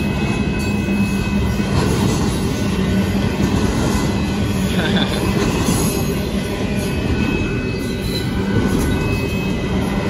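Union Pacific double-stack intermodal freight train rolling through a grade crossing: a steady loud rumble of the cars on the rails, with a thin high wheel squeal coming and going.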